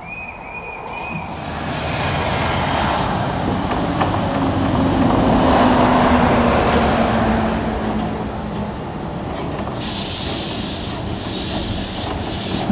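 A narrow-gauge steam-hauled goods train pulling away and rolling past, its wheels rumbling on the rails, loudest about halfway through. It opens with a short trilling whistle. Near the end come three hissing bursts.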